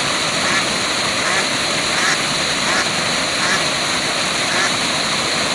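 Waterfall rushing steadily, with short animal calls repeating faintly about once a second over the water noise.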